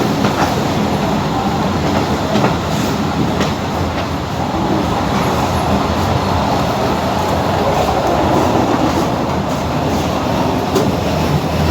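Abu Qir line passenger train running on the track, heard from aboard: a steady rumble of wheels on rails, with a few sharp clicks from the rail joints.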